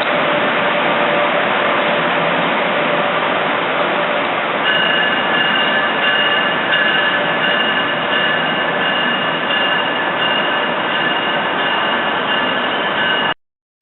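A train running through the station, a loud steady rush of wheels on rail. About a third of the way in, a thin high squeal from the train joins and holds. The sound cuts off abruptly just before the end.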